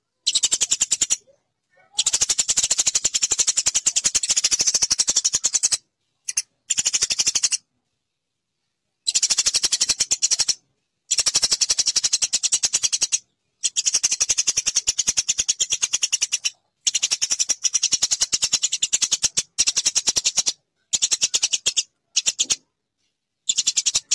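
Eurasian tree sparrow chirping: fast runs of sharp, evenly repeated chirps in bursts of one to four seconds, separated by short silences.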